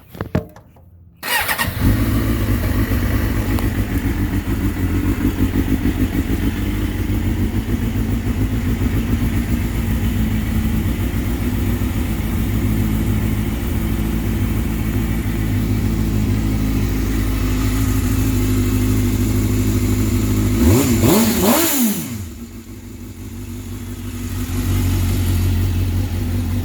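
2005 Suzuki GSX-R 750's inline-four with a Scorpion aftermarket exhaust starting up about a second in, then idling steadily. About twenty seconds in it is revved once, the pitch rising and falling, and the idle sags for a few seconds before picking back up.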